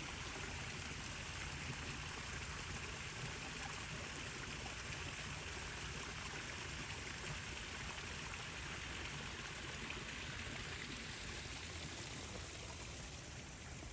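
Steady, even rush of running water, with a low rumble underneath.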